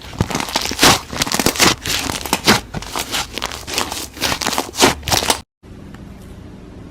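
Slime being squeezed and pressed by hand, a dense run of crackles and pops. It cuts off suddenly after about five and a half seconds, leaving a quieter steady hum with a few faint clicks.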